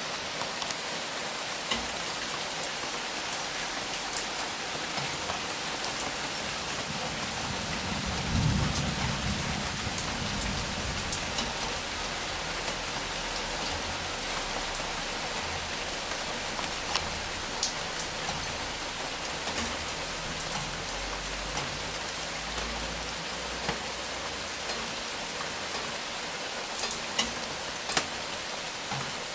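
Steady heavy rain during a thunderstorm, with scattered sharp drip ticks close by. A low rumble of thunder swells about eight seconds in, and fainter low rumbles follow later.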